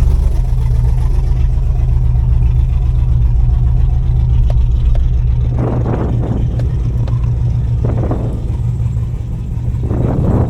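Chevrolet Camaro's LS3 V8 running rough in reduced-power mode, with a steady low drone. A few times, about halfway through and again near the end, the revs briefly spike on their own: the engine is surging with a misfire that sets no trouble code.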